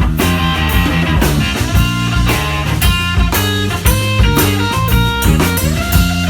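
Live blues-rock band playing, with guitar notes over bass and drum kit.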